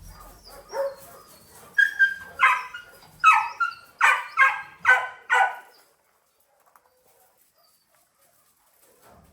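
A dog barking, about eight sharp pitched barks in quick succession, stopping about six seconds in.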